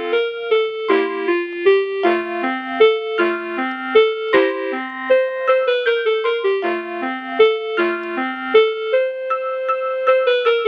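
Lullaby melody from a baby crib soother toy, played in an electronic piano-like tone: short notes at about three a second, with one longer held note near the end.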